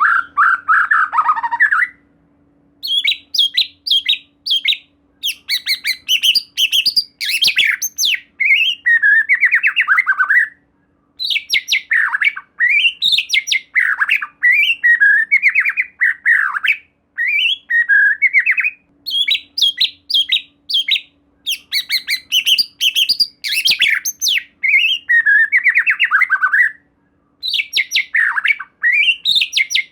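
White-rumped shama singing in loud, fast phrases of varied whistled notes mixed with sharp clicking notes, with short pauses between phrases.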